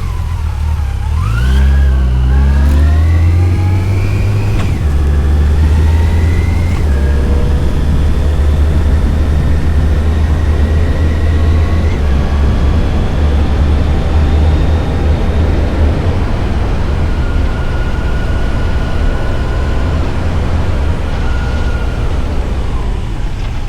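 Yamaha FJR1300's inline-four engine accelerating through the gears, its pitch rising and dropping at shifts about four and a half and seven seconds in, then settling into a steady cruise, with wind rushing past.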